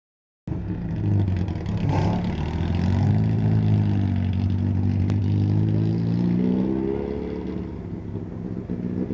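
2006 Ford Mustang's engine running, its pitch wavering with light revving and climbing for a moment about six seconds in before settling back down. A single sharp click about five seconds in.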